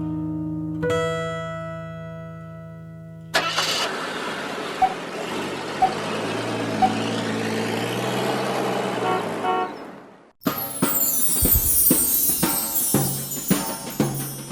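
Plucked-string music fades, then a car engine runs with three short beeps about a second apart, and cuts off suddenly before music starts again.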